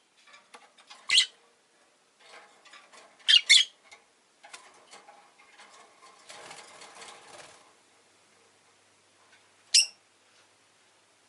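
Rosy-faced lovebird giving short, sharp, high chirps: one about a second in, two in quick succession a little later, and one near the end. Quieter clicking and rustling fill the gaps.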